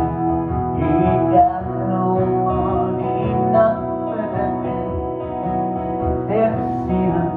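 Live acoustic guitar strumming chords, with a man singing over it.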